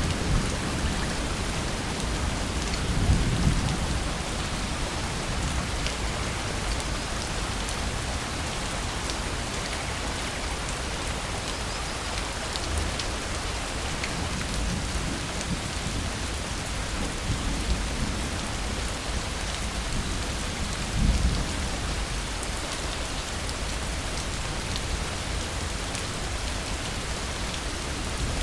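Steady heavy rain hissing, with short low rumbles of thunder about three seconds in and again near twenty seconds.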